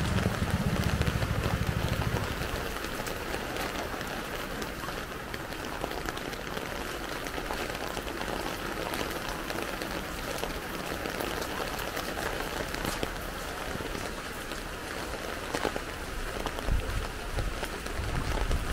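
Steady rain falling on a street: an even hiss with many small drop ticks through it. A low rumble comes in during the first two seconds and again near the end.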